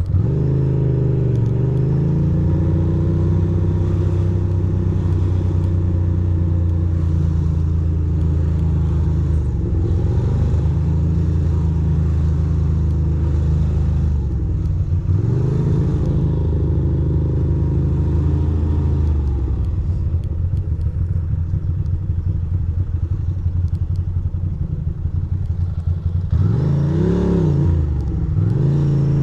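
A 2006 Ducati Monster 620's air-cooled L-twin engine running under way through city traffic, its revs rising and falling as the rider accelerates and eases off. It settles lower and quieter about two-thirds of the way through, then is revved up and back down sharply near the end.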